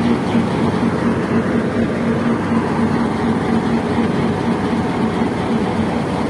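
Passenger train hauled by a PHA-20 diesel locomotive running at speed, heard from aboard: a steady rumble of wheels on the track with a low, droning hum.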